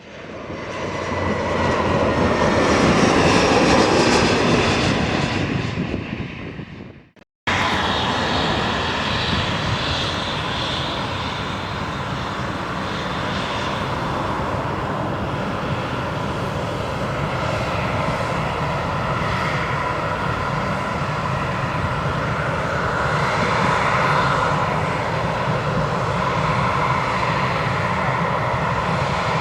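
Jet airliner engines: one aircraft swells up loud with a slowly falling whine and fades away within the first seven seconds. After a sudden cut, steady jet engine noise with a whine continues, swelling slightly near the end.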